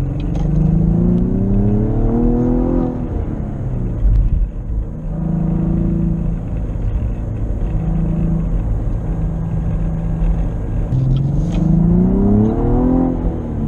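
Cadillac ATS-V's twin-turbo V6 accelerating twice. Each time the engine note rises steadily in pitch for two to three seconds, then drops suddenly at the upshift. Between the two pulls the engine runs at a lower, steady note.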